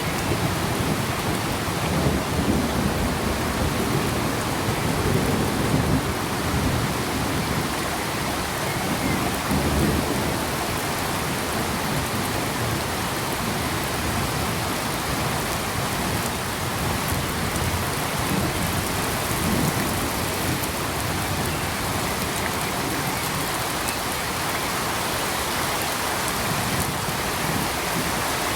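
Steady rainfall, an even hiss. Low rumbling swells come through during roughly the first ten seconds.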